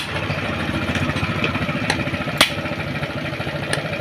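A small engine idling steadily with a fast, even pulse, and a few sharp clicks over it.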